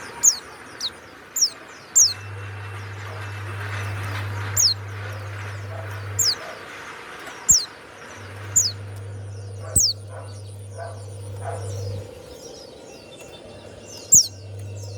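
Pleci (white-eye) calling loudly: a series of sharp, high notes, each sliding quickly downward, about one a second, with a few gaps.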